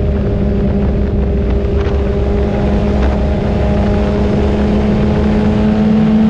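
Motorcycle engine running at a steady cruise, its pitch creeping slowly upward, over a steady low rumble.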